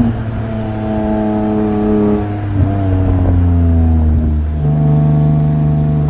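BMW E46 M3's S54 straight-six engine, breathing through Euro-spec headers and a Supersprint exhaust. The note drops as the throttle comes off, then runs at lower revs with its pitch slowly falling, changing tone about two seconds in and again past four seconds.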